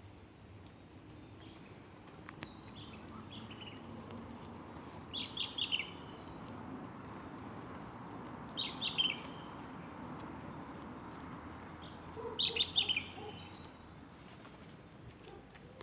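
A songbird repeating a short phrase of quick high chirps three times, about every three and a half seconds, with fainter chirps earlier, over a steady background hiss.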